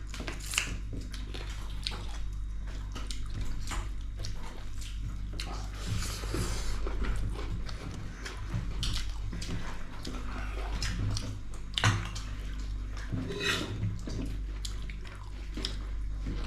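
Close-up eating sounds of goat meat curry with rice: wet chewing and slurping, with many short clicks and smacks, over a steady low hum.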